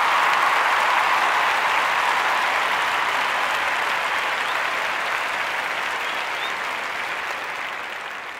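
Crowd applauding after a fireworks salute, a dense steady clapping with a couple of faint whistles, gradually dying down.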